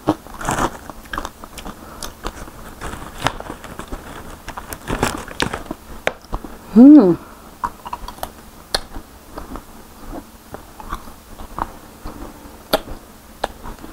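Close-miked chewing and crunching of crispy fried fruit-and-vegetable chips, with many sharp crunches, and a loud hummed "mmm" about seven seconds in.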